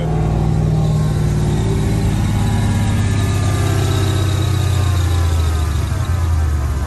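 V8 truck engine running loud and steady, freshly tuned up with new plugs and wires and firing on all eight cylinders; its pitch slowly falls over several seconds as the revs drop.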